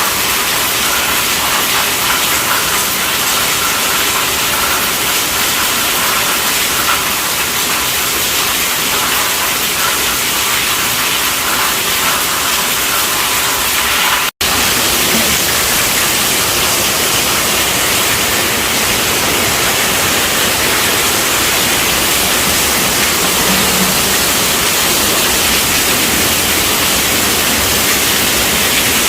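Heavy rain drumming on a tent roof, a dense steady hiss with no separate drops standing out. About halfway through it cuts out for an instant and comes straight back, a little deeper.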